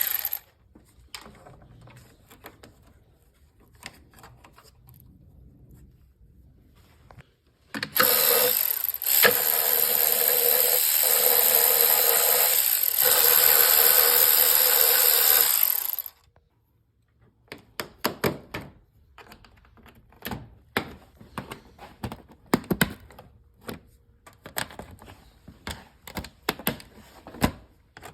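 A power tool starts about eight seconds in and runs steadily for about eight seconds, loosening fasteners under the hood. Its run is followed by many short clicks and clinks of hand tools and metal parts being handled.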